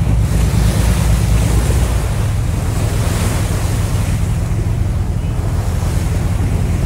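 Wind buffeting the microphone on a whale-watching boat at sea, over the steady low drone of the boat's engine and the wash of waves.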